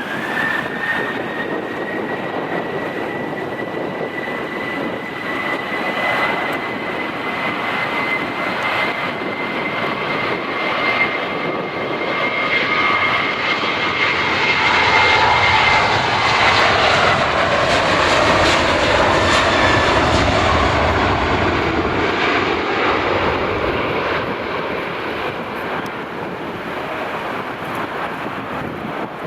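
Jet airliner's engines passing by, a steady high whine over a broad rush that grows loudest about halfway through, with a deeper rumble, then fades.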